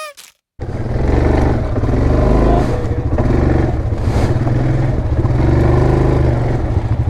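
ATV engine running steadily under load as the machine rides along, its low rapid firing pulse unbroken; it cuts in suddenly about half a second in after a moment of silence.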